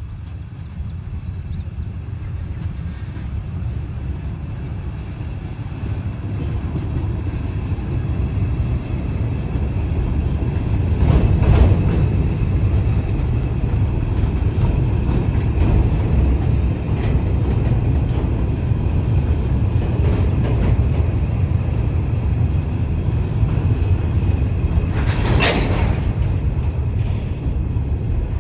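Train passing close by. A steady rumble builds over about the first ten seconds, then holds, with a sharp clank about eleven seconds in and another near the end.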